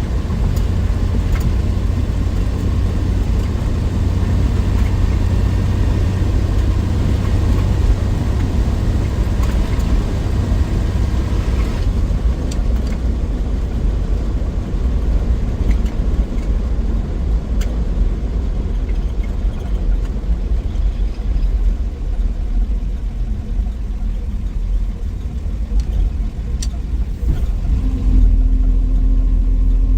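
A 1963 Willys Wagon's 230 Tornado overhead-cam straight-six engine running on the road, with road noise under it. The sound eases off a little about twelve seconds in, and a steady low drone comes in near the end.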